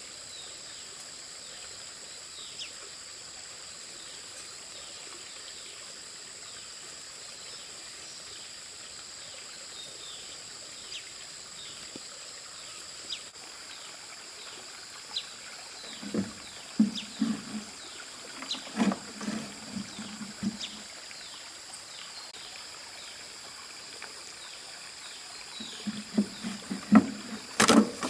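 Insects droning steadily at a high pitch, with many short falling chirps. In the second half come several bursts of low sounds and sharp knocks, the loudest knock near the end.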